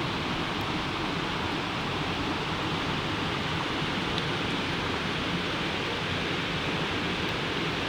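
Campfire burning: a steady rushing hiss with a few faint crackles.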